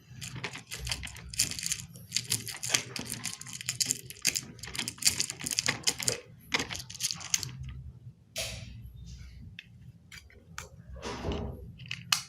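Pieces of a helicopter model kit being handled and pressed together: a fast, busy run of clicking and rustling for about seven seconds, then scattered clicks and scrapes.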